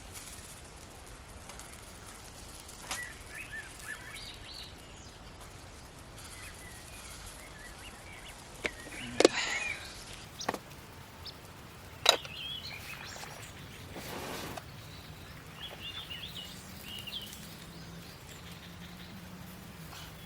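Birds chirping here and there over a faint outdoor background, with a few sharp knocks. The loudest knock comes about nine seconds in and another about twelve seconds in, and a low hum comes in near the end.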